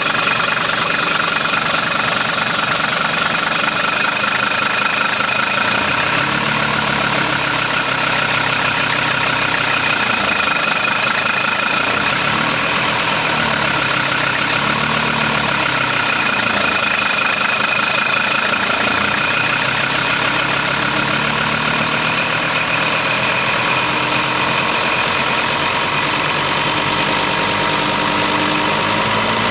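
Mercedes-Benz W123 300D's five-cylinder diesel idling, with a knock in its running that can barely be heard from outside the car.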